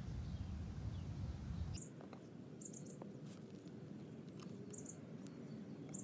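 A small bird chirping faintly, with a few short, high chirps over a quiet outdoor background. A low rumble dies away about two seconds in.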